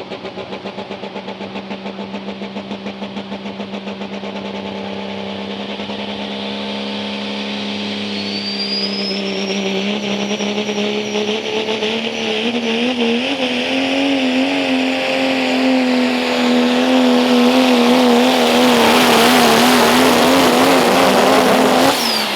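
Pro stock diesel 4WD pickup's turbocharged diesel engine under full load on a pull, growing louder with a turbo whistle rising about eight seconds in, its pitch climbing and wavering. Near the end it lets off suddenly and the pitch falls away.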